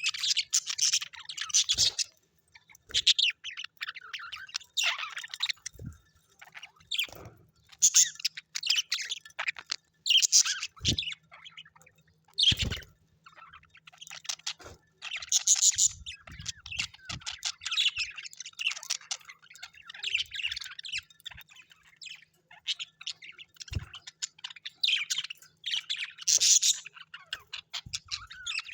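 Birds chirping and chattering in quick, irregular bursts of short calls, with an occasional harsher squawk.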